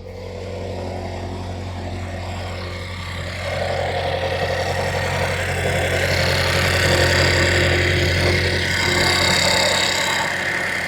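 2015 Chevrolet Equinox engine running steadily just after starting, getting louder about three and a half seconds in. The car had been a no-start until its rodent-damaged wiring was repaired.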